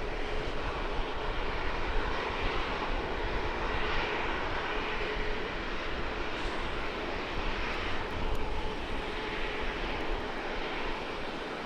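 Jet airliner engines heard as a steady rushing noise with a faint hum, not rising or falling sharply.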